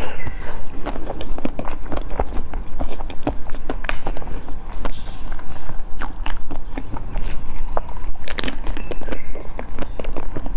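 Close-miked eating: a person chewing soft food with many wet mouth clicks and smacks.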